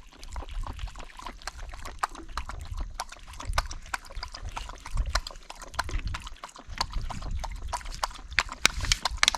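A dog lapping water, with quick, repeated wet laps and sloshes.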